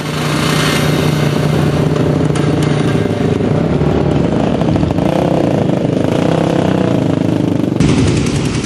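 Motorcycle engine running loud and steady for a few seconds, then revving up and down.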